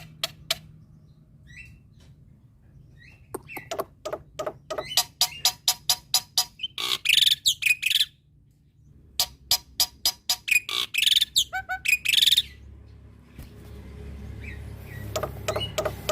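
Male black-winged myna singing: runs of quick, sharp repeated notes, about five a second, mixed with louder harsh squawky calls, breaking off briefly in the middle and going quieter for a few seconds near the end.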